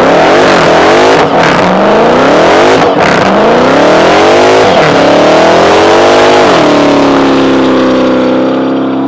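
Dodge Challenger Hellcat Redeye's supercharged 6.2-litre HEMI V8 revving hard during a burnout, its rear tyres spinning. The revs rise and fall several times over a rough rushing noise, then hold steady at one high pitch near the end.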